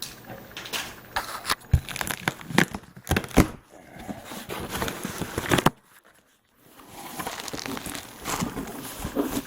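Packaging being opened and handled: crinkling and rustling with many sharp crackles and taps. It breaks off briefly just past the middle, then resumes as softer rustling.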